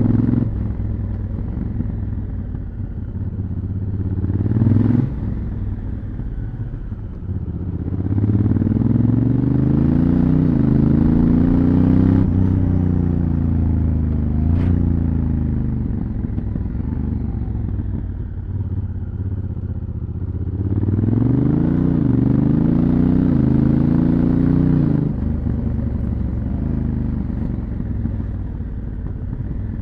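Honda Africa Twin CRF1000L's parallel-twin engine through its stock exhaust, accelerating twice with the dual-clutch transmission shifting up in quick steps, the engine note climbing and dropping back at each shift, and easing off between the runs.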